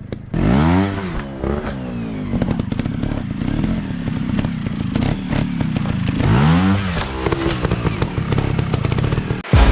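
Dirt bike engine running with a rapid steady beat, revving up and falling back twice: once near the start and again about two thirds through. Scattered clicks and clatter run over it.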